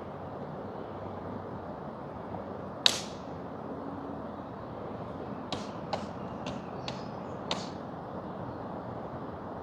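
Wood fire crackling with sharp pops over the steady rush of a flowing river. There is one loud pop about three seconds in, then five smaller pops a few seconds later.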